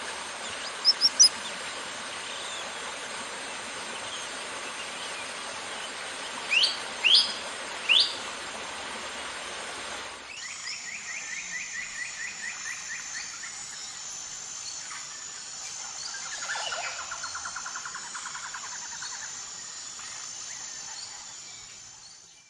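Birds calling over a steady rushing hiss: three quick high chirps about a second in and three rising whistles around seven seconds. About ten seconds in the background changes and birds give fast trills under a high steady pulsing tone, fading out at the end.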